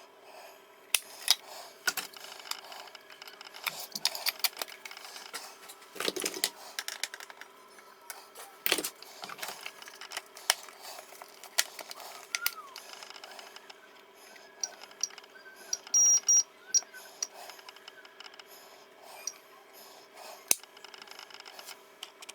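Irregular sharp clicks and taps from small hard objects being handled, with a few short gliding tones in the second half.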